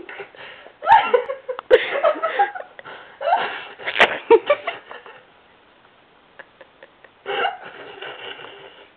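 A girl making silly vocal noise effects with her mouth and throat, in several short bursts with a quiet pause in the middle.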